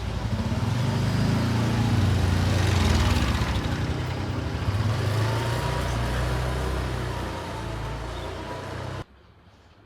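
A motor vehicle engine running close by, louder through the middle, cutting off abruptly about nine seconds in.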